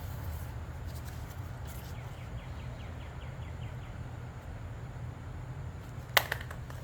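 A bird gives a quick run of about eight short chirps, roughly six a second, midway through, over a steady low hum. Near the end comes a single sharp click, the loudest sound, followed by two fainter ones.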